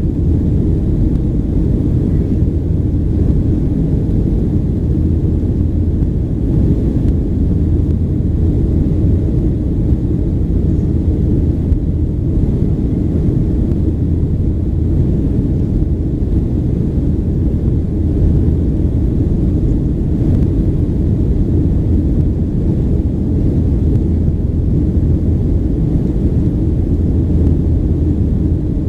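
Steady low rumble inside the cabin of a Boeing 737-800 airliner: its CFM56 jet engines and the airflow, running at an even level with no change in pitch or loudness.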